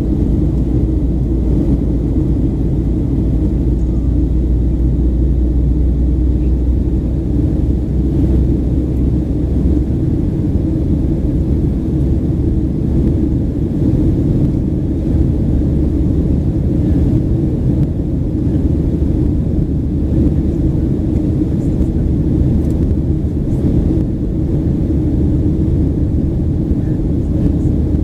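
Boeing 737-800 cabin noise: a loud, steady low rumble of the CFM56 jet engines and airflow, heard from inside the cabin. The deepest part of the rumble shifts about ten seconds in.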